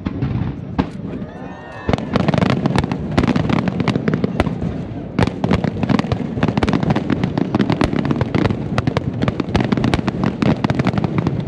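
Aerial fireworks display: shell bursts and crackling reports that thicken about two seconds in into a rapid, near-continuous barrage.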